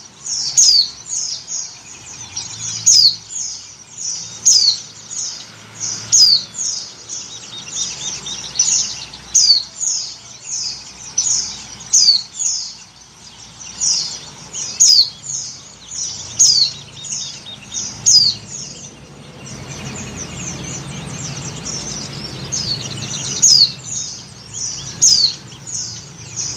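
White-eye (pleci) giving short, high, downward-sweeping chirps about one to two a second, mixed with quick trills: a female in breeding condition calling to males.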